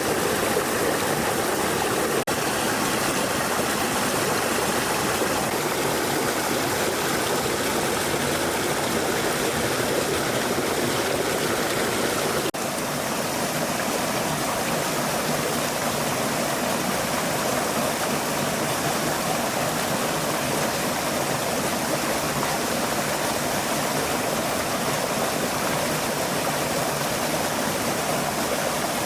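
Stream water flowing, a steady rush, with two brief dropouts about two seconds in and about twelve seconds in.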